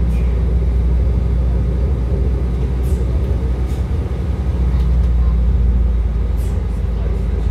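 Passenger train running, heard from on board: a steady low rumble of wheels on rails and running gear, with a few faint, brief high sounds.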